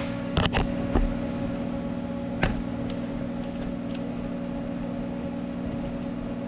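Steady machine hum with a few sharp metal clicks and taps, three or four of them in the first two and a half seconds, as a hand tool works on a metal part.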